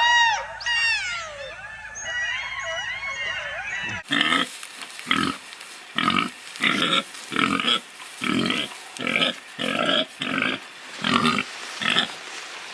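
For about four seconds, a chorus of overlapping high, arching calls. Then a sudden cut to a male koala bellowing: a regular series of deep, snoring grunts, about one and a half a second.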